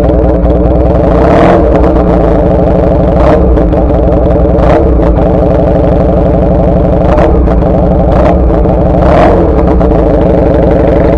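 The 125 cc twin-cylinder engine of a 1999 Honda Rebel CA125 is idling steadily and loudly through an aftermarket BSM/Highway Hawk exhaust. About six brief sharp louder moments stand out over the steady running.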